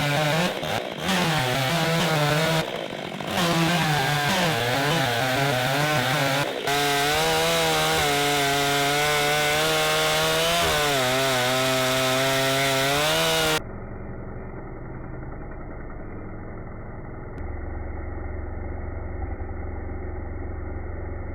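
Chainsaw running under load, its pitch wavering as it cuts wood, with a few brief dips. About two-thirds of the way through it cuts off abruptly, and a quieter, muffled, low steady engine hum follows.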